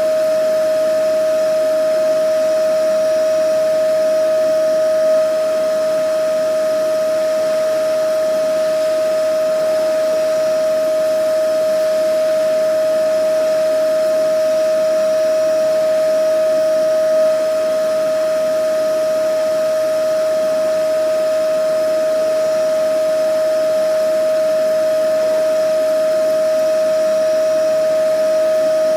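Vacuum cleaner running steadily: a loud, even motor whine over a rushing hiss of air.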